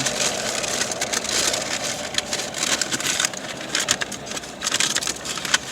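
A paper fast-food bag being rummaged through and crumpled: a continuous dense crinkling and crackling that thins out near the end.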